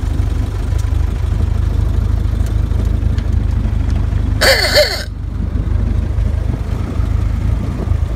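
Ford Model T's four-cylinder engine running steadily as the open car drives along, a constant low rumble. About four and a half seconds in, a brief high-pitched sound cuts in for about half a second.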